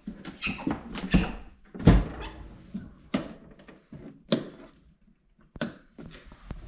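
A series of irregular knocks and clatters, a strong one about every second with fainter ticks between.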